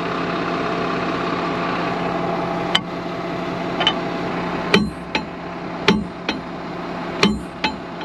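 Tractor engine idling steadily, with sharp metallic knocks on top: a single knock about three seconds in, then three pairs of knocks in the second half.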